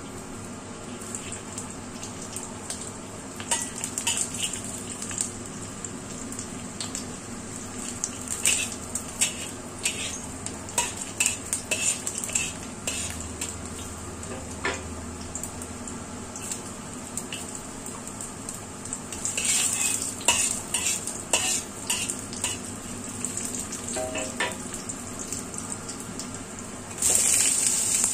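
Garlic cloves frying in hot oil in a wok, crackling and popping, with a metal spatula knocking and scraping against the wok. About a second before the end, diced winter melon is tipped into the oil and a sudden, louder sizzle starts.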